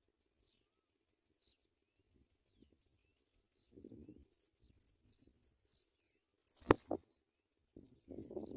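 Pipits' high, thin chirps in quick runs of short notes, with soft rustling and one sharp tap a little before the end.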